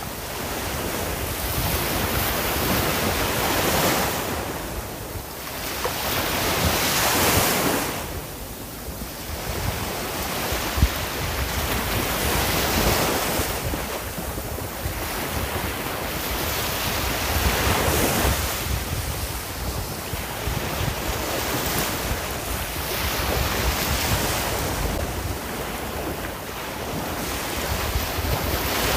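Sea waves breaking and washing up on a shore, surf noise swelling and ebbing every few seconds.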